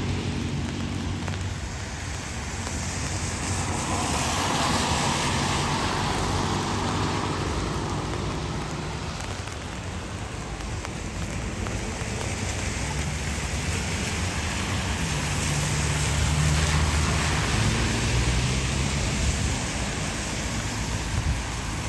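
Steady rain with city traffic passing on wet streets. Vehicle engines come and go, most clearly at the start and again about two-thirds of the way through.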